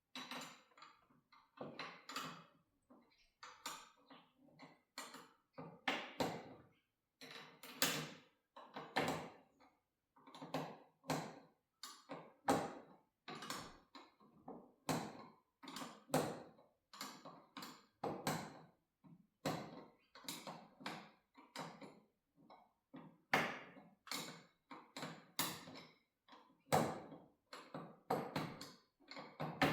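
Wrenches clicking and knocking against the metal bolts and brackets of garage door spring hardware as the bolts are tightened: short metallic clicks, irregular, about one or two a second.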